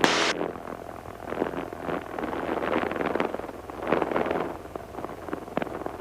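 A 1948 Cessna 140 light aircraft's engine and propeller droning steadily in the climb, heard inside the cabin, with a brief loud hiss right at the start.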